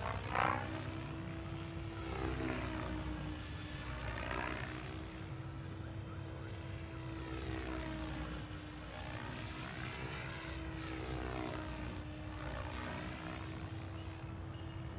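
Raw 580 electric RC helicopter in flight, its motor and rotor whine sweeping up and down in pitch every couple of seconds as it manoeuvres, over a steady low hum. Wind rumbles on the microphone underneath.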